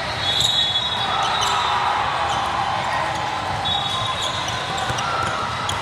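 Basketball being dribbled on a hardwood gym floor, with repeated bounces echoing in the hall. Two short high squeaks come about half a second in and again near four seconds, over a background of crowd voices.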